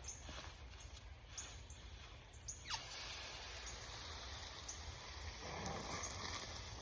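Garden hose spraying water onto a bed of sawdust and ground wood. The spray comes on suddenly about a third of the way in, after a few faint clicks, and runs as a steady hiss.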